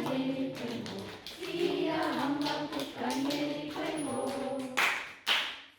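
Fairly high-pitched voices, in a pattern of speech or singing, with two short, sharp sounds a little before the end.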